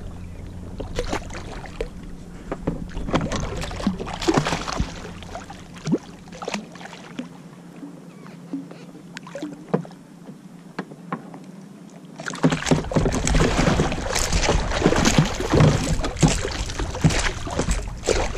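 Water splashing and lapping around a kayak, broken by many short splashes. About two-thirds of the way through it turns much louder and busier, with heavier splashing and rumble on the microphone.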